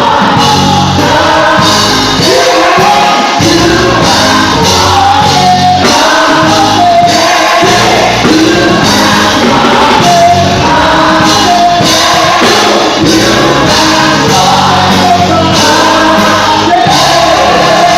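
Live gospel music: a worship band with singers and a choir, sung voices over a steady band backing.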